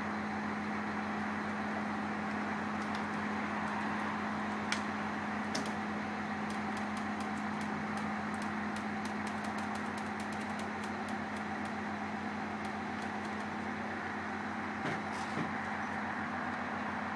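Diesel engine of a heavy vehicle, such as a truck or mobile crane, running steadily at low revs with a constant hum. A faint rapid ticking runs through the middle.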